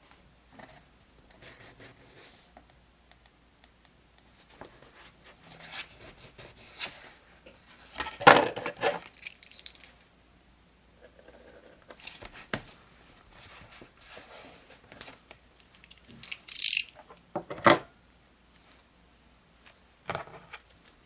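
Diary-decorating stationery being handled at a desk: paper and sticker sheets rustling, with small taps and clicks. There is a louder rustle about eight seconds in, and a short high hiss followed by a sharp click a few seconds before the end.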